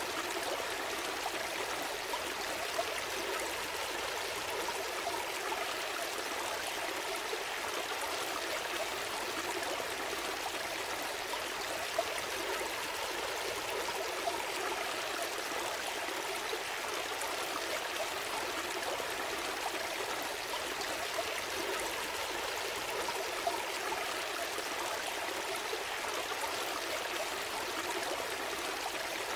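A small stream flowing and trickling steadily, in an even, unbroken rush of water.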